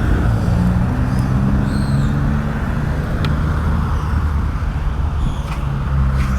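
Motor-vehicle engines running, with steady road-traffic noise and low engine tones that shift in pitch.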